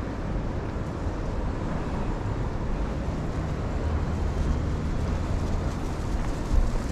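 Steady low-rumbling city street ambience with no distinct events standing out.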